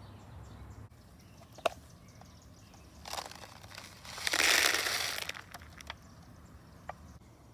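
Cat food being put out: a short rustle about three seconds in, then a louder crinkling, rustling burst lasting about a second, with a few light clicks before and after.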